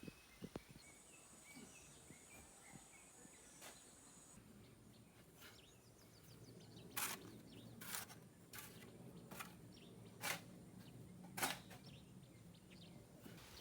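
A digging tool, a mattock or spade, strikes the ground about once a second, six or seven sharp blows through the second half, while birds chirp faintly early on.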